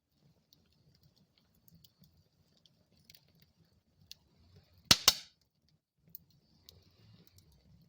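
Wood fire burning in a fireplace: a soft low rumble with faint scattered crackles, and two loud sharp pops in quick succession about five seconds in.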